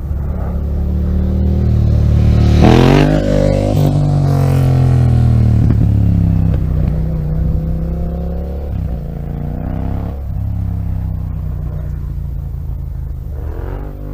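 Yamaha MT-07's 689 cc parallel-twin engine through an aftermarket exhaust, revved in a sharp throttle blip about three seconds in, then several smaller blips, the revs sinking back between each.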